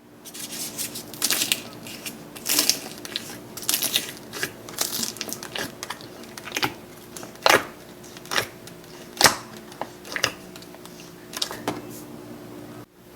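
Slime being pressed and worked by hand, giving off irregular crisp crackles and pops.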